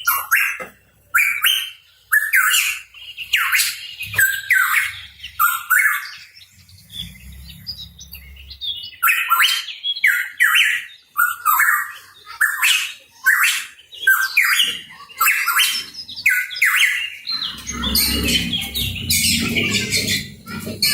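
Pitohui calling continuously: a rapid run of short, harsh, downward-sweeping notes, several a second with brief gaps. A low rumble sits underneath near the end.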